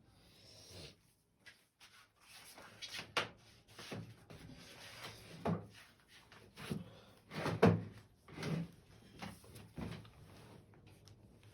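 Kitchen clatter: about ten separate knocks and bumps, like cupboard doors, drawers and kitchenware being handled. The loudest knock comes about seven and a half seconds in.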